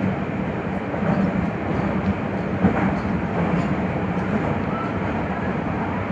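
Nagoya Higashiyama Line 5050 series subway train running between stations: a steady rumble of wheels on rail with a constant hum, and one sharp click about two and a half seconds in.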